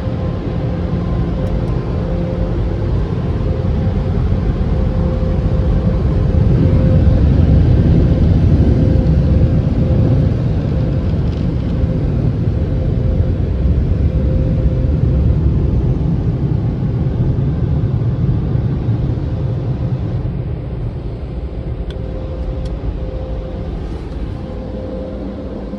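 Express car wash machinery running with a steady rumble and a faint constant hum. It swells about a quarter of the way in and eases off over the last several seconds.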